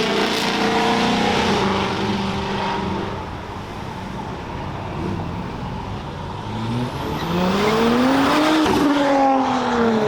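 Cars accelerating away from a car show. One engine fades off over the first few seconds, then a second car's engine rises in pitch as it speeds up and drops as it passes close by near the end.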